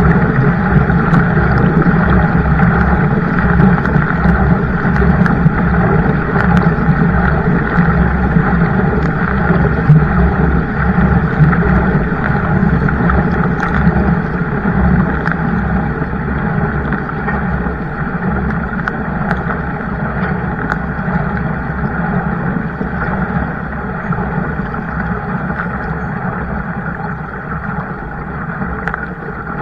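Steady rushing noise of a kayak on the water, with a low hum underneath, slowly getting quieter.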